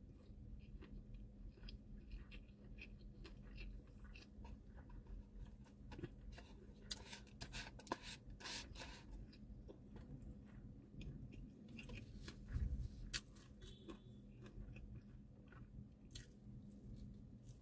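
Close-miked chewing of egg roll kimbap, faint and wet with many small mouth clicks. A few louder clicks and scrapes come in the middle as wooden chopsticks pick a piece out of a paper bowl.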